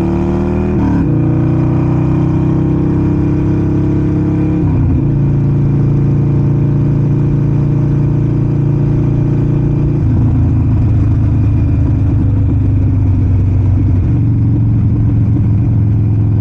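Harley-Davidson Sportster Forty-Eight's air-cooled V-twin engine running under way. Its pitch rises and then drops sharply about a second in and again near five seconds, as when upshifting. After that it runs steadily, with small changes in throttle.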